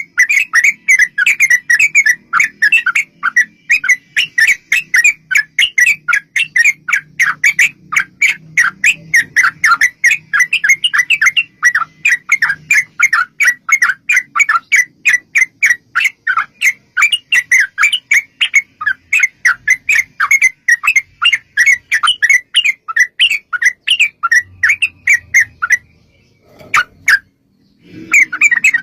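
Yellow-vented bulbul (trucuk) singing a long, rapid run of bubbly chattering notes, several a second. The song pauses briefly near the end, then starts again.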